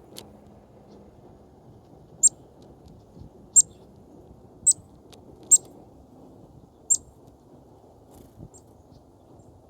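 Small songbird chirping: five short, high call notes about a second apart, and a faint sixth near the end, over a low steady background noise.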